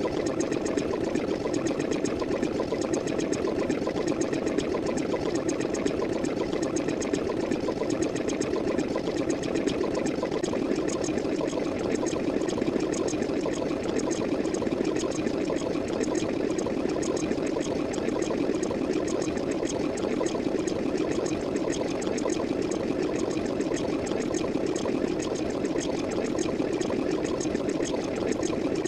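Steady, continuous noise of running, pouring water, even in level throughout.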